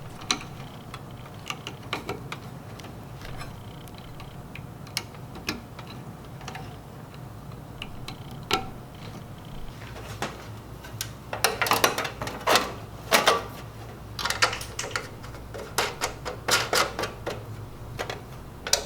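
Hands working on the underside of a countertop sandwich grill: scattered sharp clicks and rattles of small metal parts as wire terminals and parts are fitted, busiest about halfway through and again near the end, over a low steady hum.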